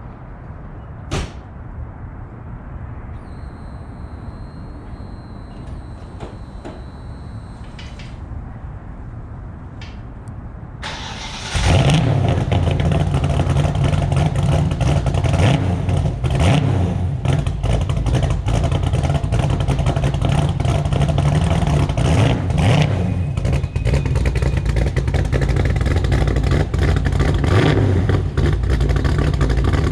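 Cold start of a 1987 Ford Mustang LX's built 302 small-block V8, running Holley Sniper EFI and a Trick Flow stage 4 cam and breathing through short headers, an X-pipe and Dynomax Race Bullet mufflers. After a click and a faint high steady whine for a few seconds, it cranks briefly and fires about eleven seconds in. It then runs at a loud, uneven idle, the choppy lope of the big cam.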